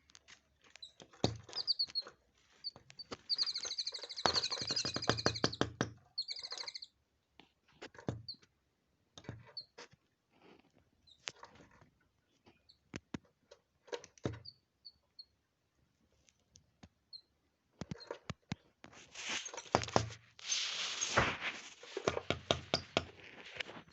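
Small birds chirping in short, high notes, with a quick run of chirps a few seconds in. Sharp taps and knocks are scattered throughout, and a stretch of rustling comes near the end.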